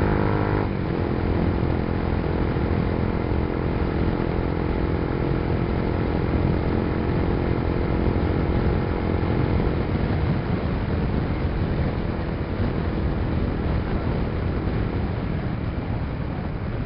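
Suzuki Gixxer motorcycle running at speed through a modified exhaust, a custom-made system with a LeoVince slip-on, with a steady rush of wind. The engine note changes sharply less than a second in, then holds steady and sinks into the wind noise over the last several seconds.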